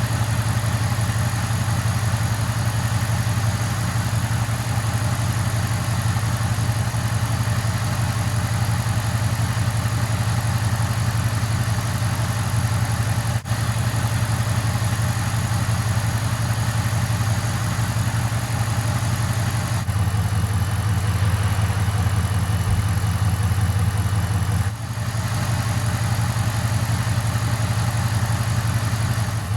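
2008 Dodge Dakota's 4.7-litre V8 idling steadily, running on 0W-20 oil that the owner finds makes it smoother and quieter. The sound breaks briefly two or three times.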